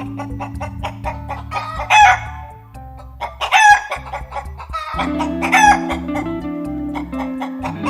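Chicken calls, three loud squawking calls about two seconds apart, over background music with sustained low notes and a steady beat.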